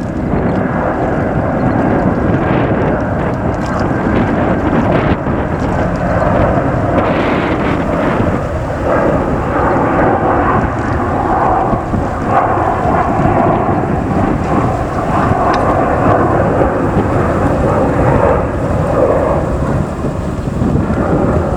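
Airbus A330-200 jet engines at takeoff power: a loud, steady rumble that holds throughout.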